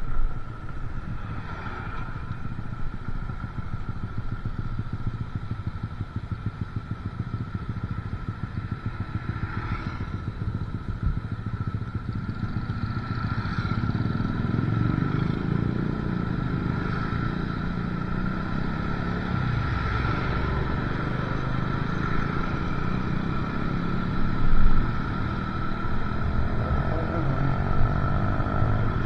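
Motorcycle engine running steadily while riding along a road, with road and wind noise; a brief louder bump near the end.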